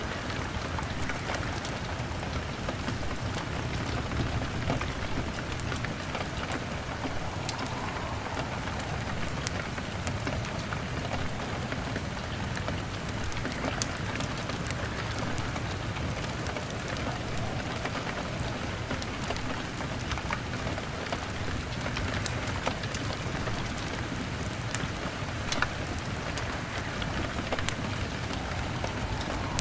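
Steady rain on a window mixed with a crackling fire: an even hiss of rain with scattered sharp pops and clicks throughout.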